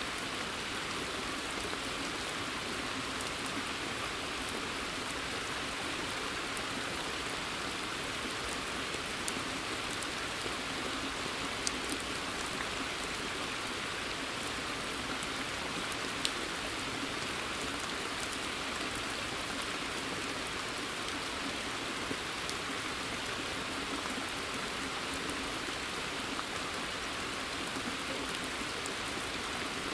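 Steady rain falling on a water surface and forest foliage, an even dense patter with a few sharper single drops standing out now and then.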